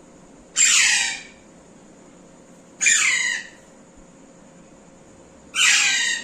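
Pet parrot squawking: three loud calls about every two and a half seconds, each about half a second long and sliding down in pitch.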